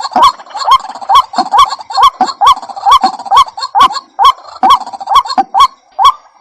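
White-breasted waterhen (ruak-ruak) calling: a loud, monotonous run of short, upward-hooked notes, about two a second.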